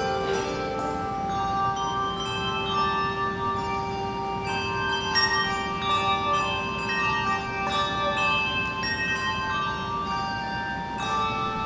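Handbell choir playing: many bells struck one after another, each note ringing on, over a low bell tone held for most of the passage.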